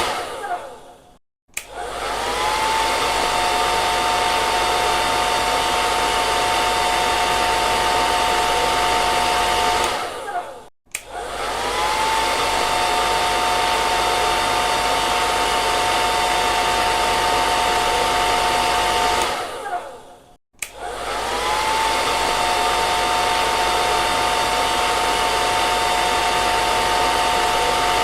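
Hair dryer running: a steady rush of air with a high motor whine. About every nine seconds it winds down and stops for a moment, then starts again, the whine rising briefly as the motor spins back up.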